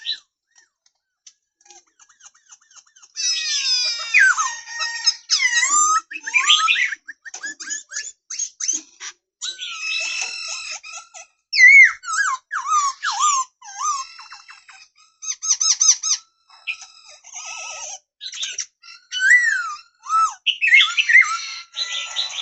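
Black-throated laughingthrush singing: a long, varied song of loud whistled glides mixed with quick chattering notes and squeaks, starting about three seconds in after a short pause and going on with brief breaks.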